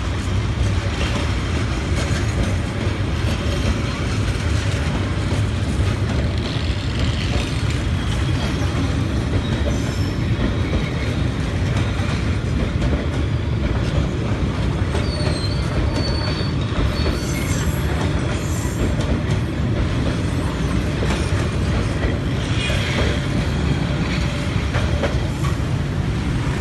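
Passenger coaches rolling past over a street level crossing: a steady rumble of wheels on the rails, with a thin, high-pitched wheel squeal coming in from about halfway through.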